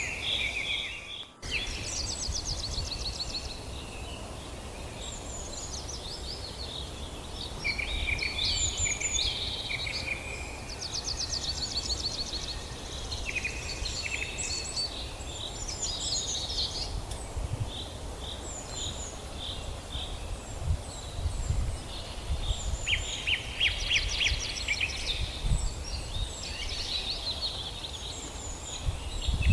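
Several forest songbirds singing and chirping, with overlapping trills and quick runs of short high notes, over a steady low rumble. The sound cuts out briefly about a second in.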